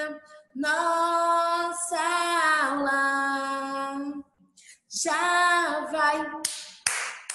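A woman singing a children's welcome song unaccompanied, in long held notes: two phrases with a short break between them.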